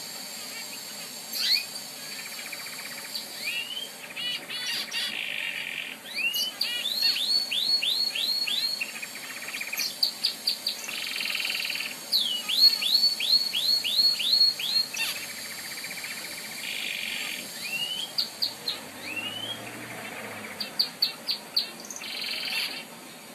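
Canary singing a long, continuous song: runs of identical quick notes, some about six a second, alternating with buzzing trills.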